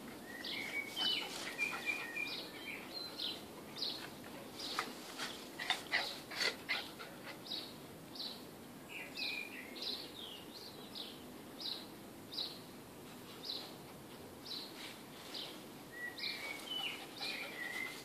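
Small songbirds chirping: a run of short, high repeated notes with a few warbled phrases near the start and near the end. Brief rustling and scuffling sounds come in the middle.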